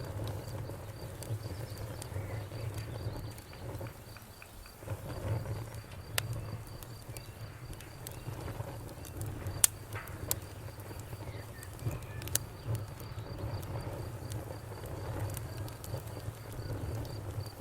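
Campfire burning with a low steady rumble and scattered crackles, a few sharp pops standing out, over a faint high insect trill that runs throughout.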